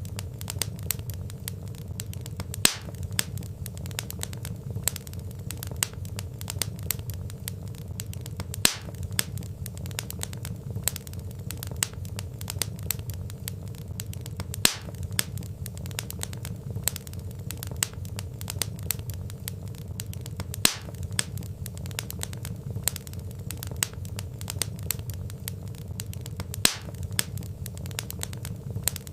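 Log fire crackling: a steady low rumble with constant small crackles and a sharper, louder pop about every six seconds.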